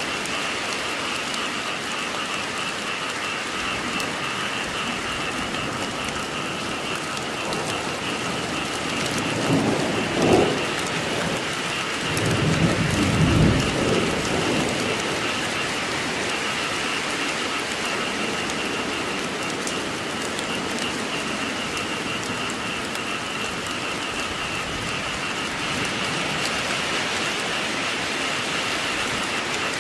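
Steady heavy rain falling, with a steady chorus of frogs calling underneath. Thunder rumbles twice, briefly about ten seconds in and longer about twelve to fourteen seconds in.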